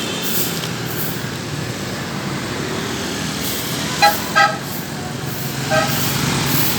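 Road traffic going by, with two short vehicle horn beeps about four seconds in and another short beep near the end.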